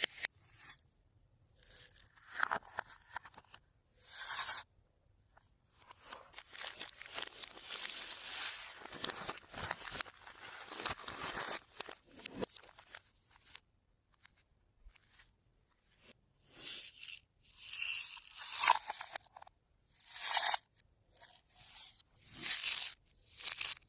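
Fluffy slime being squeezed, stretched and mixed by hand, giving crackling, crunching and sticky tearing sounds. It comes in short bursts with silent gaps, plus one longer stretch of about seven seconds in the middle.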